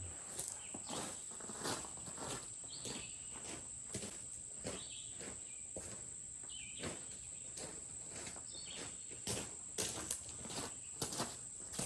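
Insects trilling in one steady, high-pitched drone, with scattered rustling and crunching footsteps and handling noises close by.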